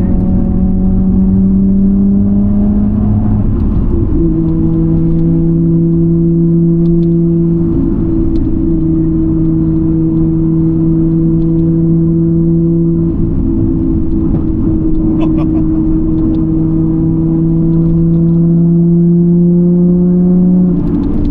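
Car engine and exhaust droning steadily at highway speed over road rumble, the pitch creeping up and then dropping at a gear change about four seconds in, and again near the end.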